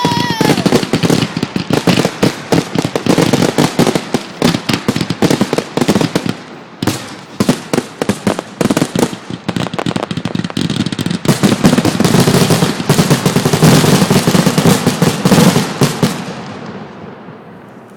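Aerial fireworks bursting close overhead in a rapid, unbroken barrage of bangs and crackles. It is densest about two-thirds of the way in, then dies away over the last couple of seconds.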